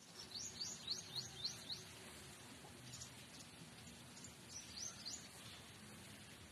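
A bird singing a quick series of about seven high chirps in the first two seconds, then two or three more about five seconds in, over faint outdoor background noise.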